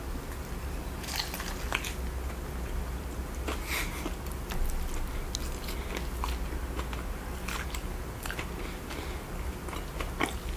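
A person biting into a soft-bun burger and chewing, close to the microphone, with scattered short wet mouth clicks and smacks. A fresh bite comes near the end.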